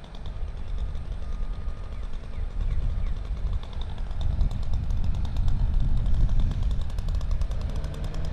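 Heavy machinery running with a low engine rumble and a rapid rattling clatter that gets louder about halfway through.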